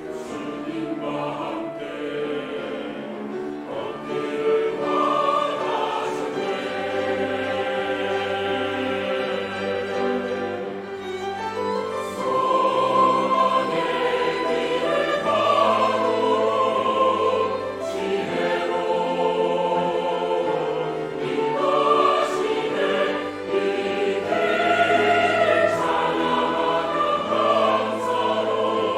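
Church choir singing a sacred anthem in several parts, with held low bass notes sounding beneath the voices.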